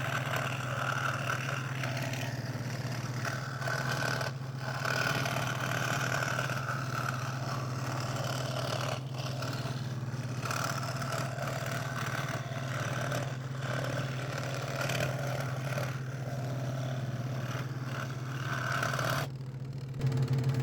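Scroll saw running with a steady motor hum while its blade cuts through thin 3 mm craft plywood, the cutting noise easing off briefly several times and stopping just before the end.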